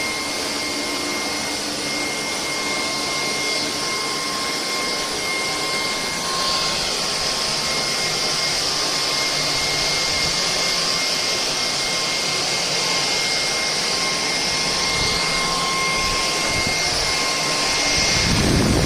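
Cordless stick vacuum (Bulelink, 580 W) running steadily, a constant motor whine over rushing air, with a louder low rumble swelling up near the end.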